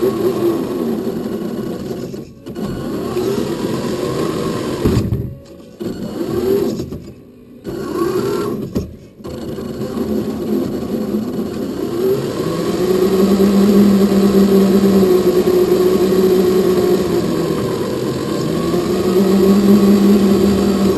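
Electric drive motor and gearbox of a Tamiya Scania R470 RC model truck whirring, its pitch rising and falling as the truck speeds up and slows, with the sound stopping short several times in the first half and running steadily later on.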